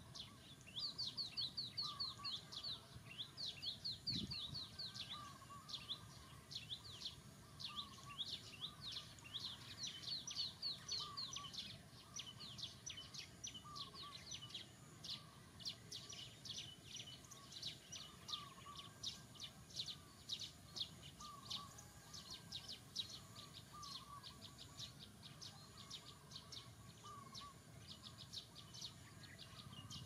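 Birds chirping: dense runs of quick, high, falling chirps throughout, with a lower short call repeating every second or two.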